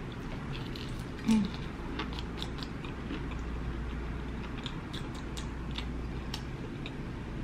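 Close-miked biting and chewing of a battered fried shrimp: many small, crisp crunches and wet mouth clicks over a steady low hum, with one brief louder low sound about a second in.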